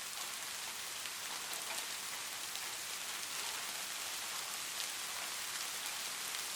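Light rain falling steadily, an even hiss with scattered small drop ticks.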